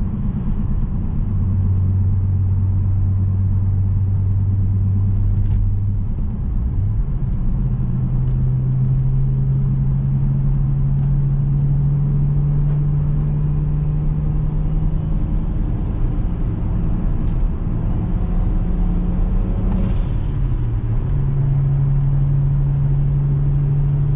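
Engine of a BMW 335i with an upgraded single turbo, heard from inside the moving car: a steady low drone. About seven seconds in it steps up in pitch and climbs slowly; it dips briefly about twenty seconds in, then settles at the higher pitch again.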